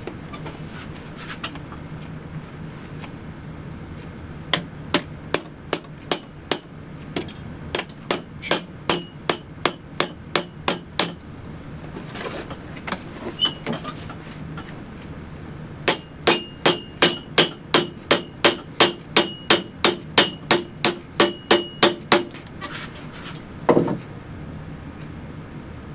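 Hammer blows on metal, with a light ring, while a new hinge is fastened onto a wicker picnic basket set on a jack stand. The blows come in two runs of quick, even strikes, about three a second, followed by a single duller thump near the end.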